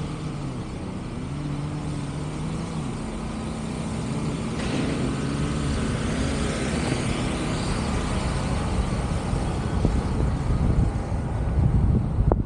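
A motor vehicle running, its engine pitch rising and falling, over steady road and wind noise, with a sharp knock near the end.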